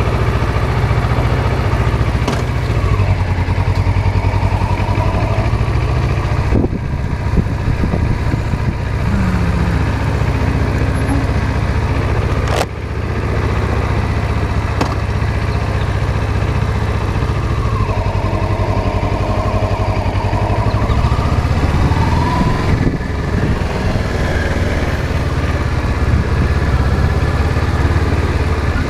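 Motorcycle engine running on the road, a deep steady hum with its pitch rising and falling a few times, and a sharp click about halfway through.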